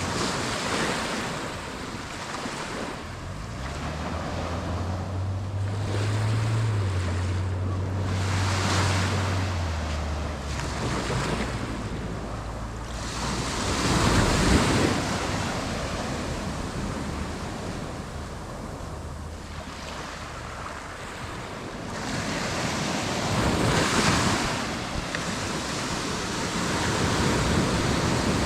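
Surf washing onto a beach in repeated swells, the loudest about halfway through, with wind buffeting the microphone. A low motor hum runs underneath from about 3 s to 12 s in.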